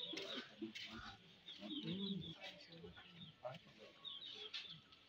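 Birds chirping in quick short calls, over the low murmur of a crowd's voices.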